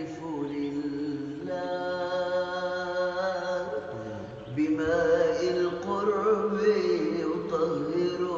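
Wordless vocal chanting in a devotional Arabic nasheed, long held notes that slide in pitch, growing louder about halfway through.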